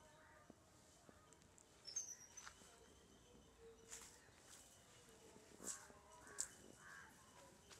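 Near silence with faint outdoor ambience. A few faint bird chirps and soft ticks come through, the clearest cluster about two seconds in and a couple more past the middle.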